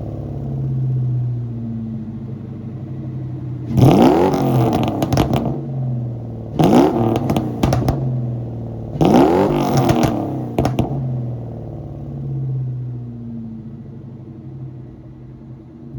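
1996 Ford Mustang engine with a straight-piped exhaust and Magnaflow mufflers, idling and revved three times in quick blips, each rev rising sharply and dropping back to idle. After the last rev it settles back into a steady idle.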